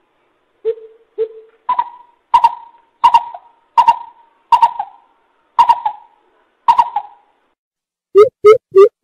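Coucal (bubut) calling: two low hoots, then a slow series of higher, rougher notes about one every 0.7 seconds. Near the end it breaks into a fast run of deep hoots.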